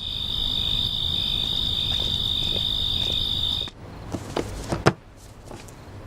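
Insects trilling steadily at a high pitch, cut off suddenly a little past halfway through; then a few light knocks.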